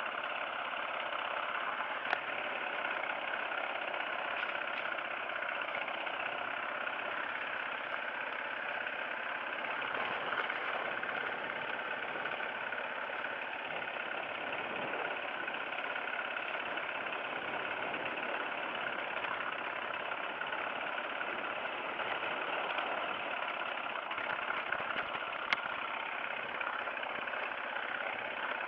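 Off-road motorcycle engine idling steadily, with no revving.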